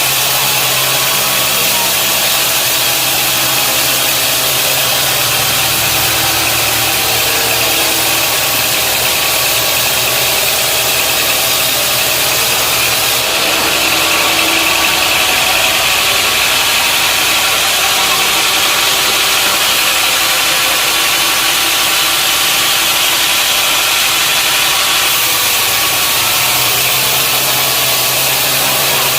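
Sawmill machinery running: a steady engine hum under a loud hiss. The hiss grows stronger about halfway through and eases back a few seconds before the end.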